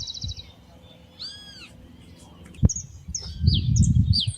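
Birds chirping with short, quick high calls and one drawn-out arching call about a second in. A sharp knock comes a little past halfway, then a loud low rumble near the end.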